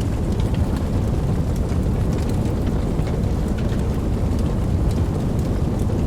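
Steady rain: a dense, low, rumbling wash with scattered sharp patters of individual drops on top.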